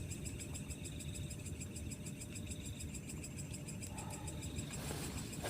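Night insects, crickets, chirping in a steady chorus of rapid even pulses, over a faint low rumble.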